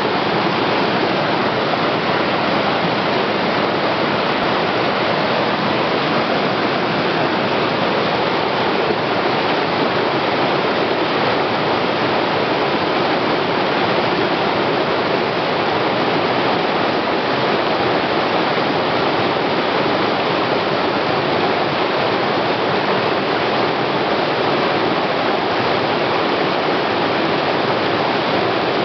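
Waterfall pouring in a steady, loud rush of falling water.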